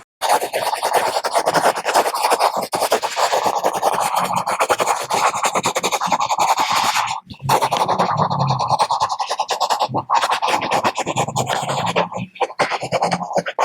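Stylus scratching rapidly across a tablet screen in quick, dense strokes, broken by a few brief pauses.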